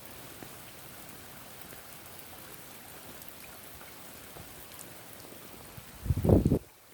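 Steady rain falling, an even patter. About six seconds in, a short, loud, low-pitched sound breaks in for about half a second.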